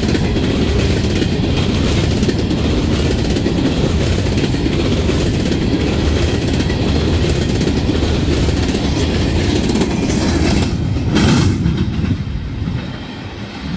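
Freight train of Herzog ballast hopper cars rolling past, a steady rumble of steel wheels on rail with clickety-clack over the joints. Near the end there is a brief louder burst, and then the sound turns quieter and duller.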